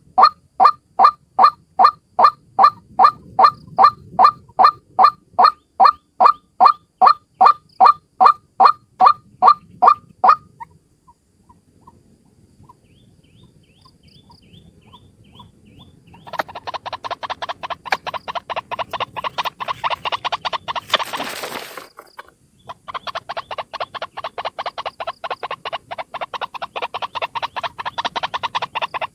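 White-breasted waterhen (ruak-ruak) calls from a lure recording. For the first ten seconds a loud call repeats evenly, about three times a second. After a short, near-quiet pause, quieter and faster runs of calls follow, with a brief rushing noise about 21 seconds in.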